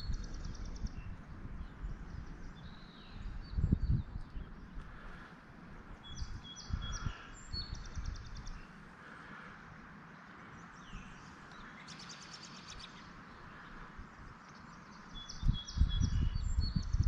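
A songbird singing the same short phrase three times, a few clear high notes and a fast trill, about every eight seconds, with another trill near the middle. Under it is a steady outdoor hiss, and low rumbles and thumps of wind on the microphone come about four seconds in and again near the end.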